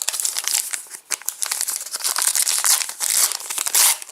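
Foil trading-card packet wrapper crinkling and tearing as it is handled and opened, loudest about three seconds in.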